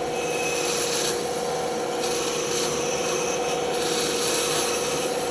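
Band saw running with its blade cutting through wood: a steady hum under a continuous rasping hiss.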